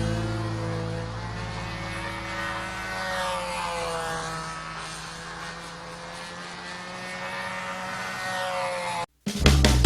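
Small model airplane engine running steadily, its pitch rising and falling slowly. It cuts off abruptly just after nine seconds, and a louder sound starts right after.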